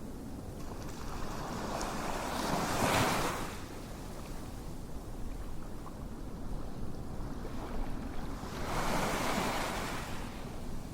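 Ocean surf: waves washing in and drawing back, with two swells of hiss about six seconds apart over a steady rush.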